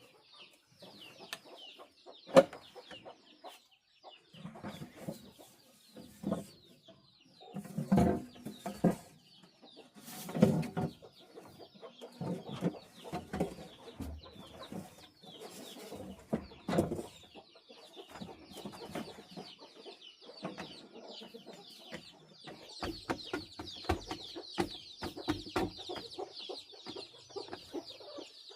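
Chickens clucking at irregular intervals, mixed with short knocks, over a steady high chirping that grows louder near the end.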